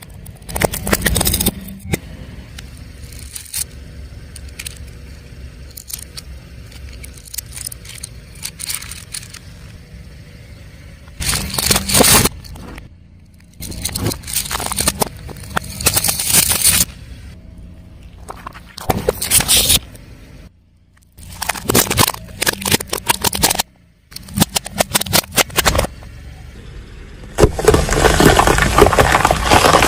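A car tyre rolling over objects and crushing them: several bursts of crunching and crackling over a low car engine rumble. The bursts are split by abrupt cuts, the longest and loudest one near the end.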